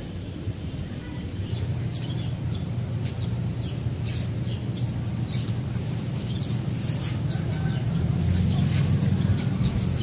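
Small birds chirping in short, scattered calls, over a steady low hum, like a distant engine, that grows louder toward the end.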